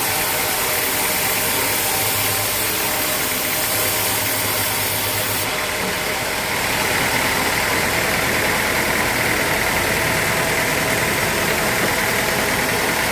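Sawmill machinery running steadily. About six seconds in the sound shifts, and a higher-pitched noise grows stronger from then on.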